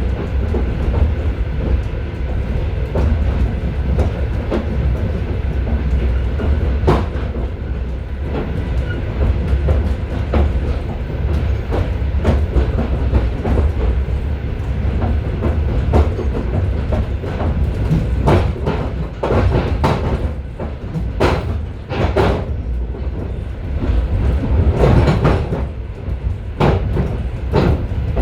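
Moving passenger railway car heard from inside its vestibule: a steady low rumble of the running gear with the wheels knocking over rail joints. The knocks come more often and louder in the second half.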